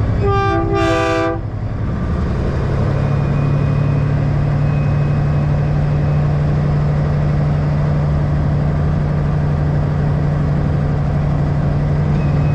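A brief blast, about a second long, from a multi-chime train-style air horn on a truck, sounding a chord of several notes. It is followed by the steady drone of a diesel truck engine running.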